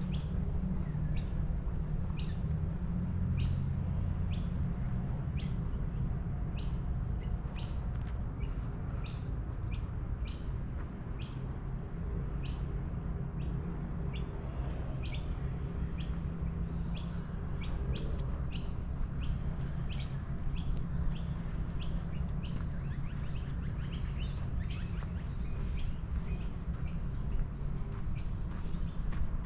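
Small birds chirping repeatedly in short, sharp calls that come more often in the second half, over a steady low rumble.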